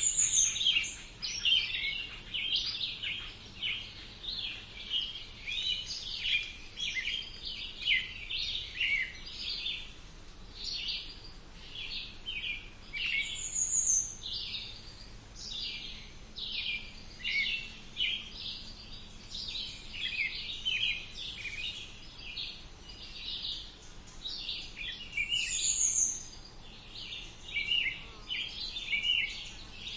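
Several songbirds singing at once: a dense, continuous stream of short chirps and twitters, with a brief high, falling note about every twelve seconds.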